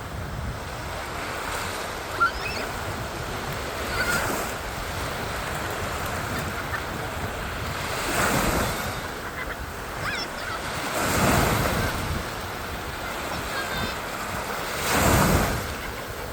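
Surf on a sandy beach: a steady wash of waves that swells as breakers come in, about four, eight, eleven and fifteen seconds in. Low wind rumble on the microphone and a few short bird calls sound between the waves.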